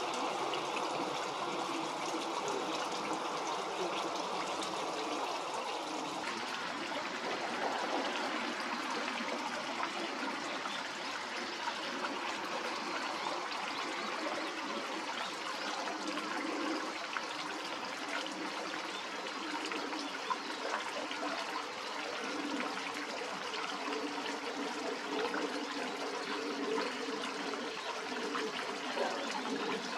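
Steady running water, an even rushing trickle with no breaks.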